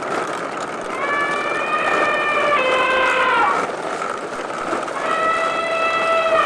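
A siren-like wailing tone over a steady hiss: held notes that step and then fall away, twice, about two seconds each.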